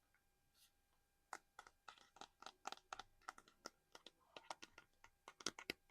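Close-up ASMR tapping and scratching on small collectible items: a quick run of sharp taps and clicks, about four a second, begins a little over a second in, with a short scratchy rustle about four seconds in.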